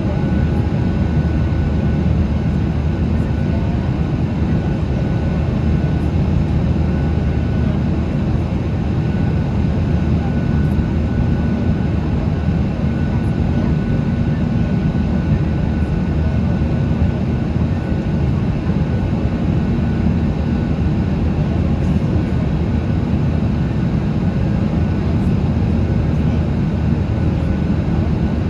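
Boeing 737 jet engines running at a steady level: a constant low roar with faint steady whining tones, unchanging throughout.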